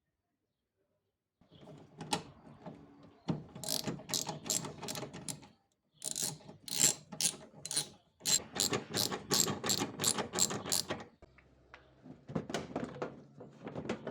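Quick mechanical ratcheting clicks, a few to the second, in several runs separated by short pauses.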